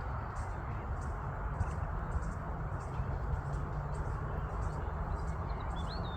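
Steady low outdoor rumble with faint, regular high ticks about twice a second, and one brief bird chirp near the end.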